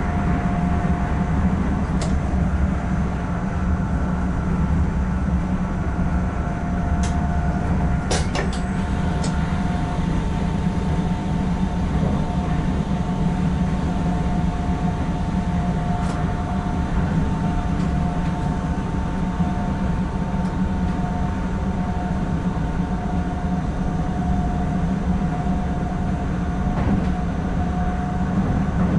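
Steady low rumble of an NS ICM ('Koploper') electric multiple unit running at speed, heard inside the driver's cab. Two steady humming tones sit over the rumble, and a few sharp clicks come at irregular intervals.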